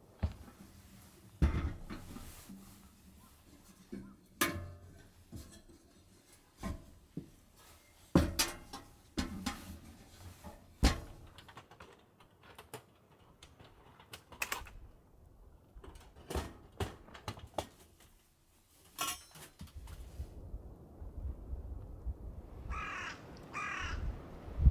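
Irregular sharp knocks and clatters, then two short harsh bird calls near the end, like a crow cawing.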